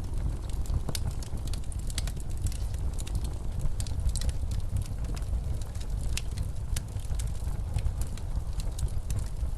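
Wood fire crackling with irregular sharp pops, over the low steady rumble of blizzard wind.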